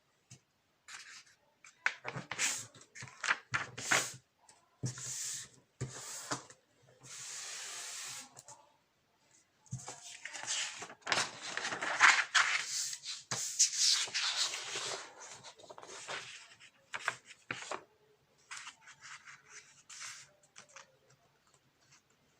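A sheet of paper being folded and creased by hand: irregular rustling and rubbing, with a longer even rub as a fold is pressed flat about a third of the way through.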